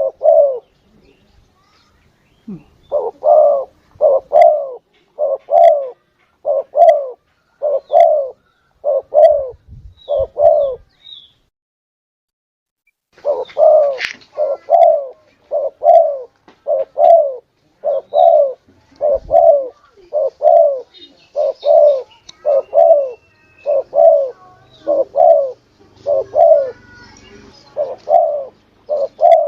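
Spotted dove cooing in a long run of repeated low coo notes, about one and a half a second, broken by a pause of about two seconds near the middle: a lure call used to draw in spotted doves. Faint high chirps of other birds sound through it.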